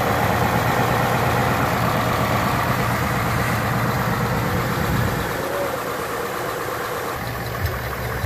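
The Ford 5.0 L Coyote V8 of a 2019 Mustang GT idling steadily, heard close from the engine bay while running on its factory-fill break-in oil. About five seconds in, the sound drops and changes, and the engine then idles again with engine flush thinning its oil.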